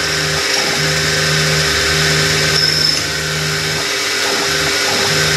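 Electric motor of a small bench machine tool running, with a low hum that drops away and comes back several times over a steady higher whine.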